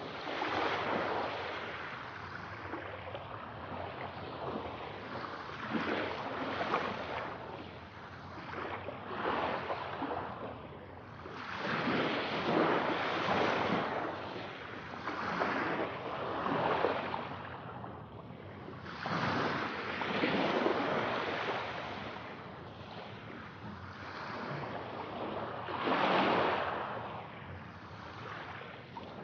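Sea waves washing in and drawing back, a rushing surf that swells and fades about every three seconds.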